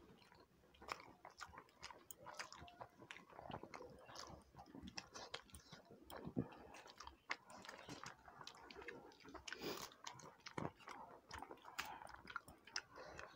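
Faint, close chewing and eating sounds of people eating rice and curry with their hands: irregular small clicks, smacks and an occasional crunch.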